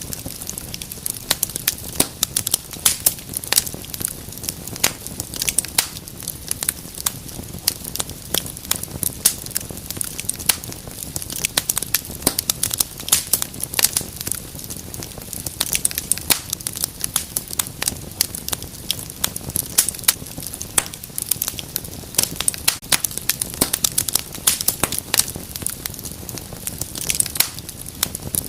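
Wood fire burning in a fireplace, crackling steadily with frequent sharp pops over a low, even rumble of the flames.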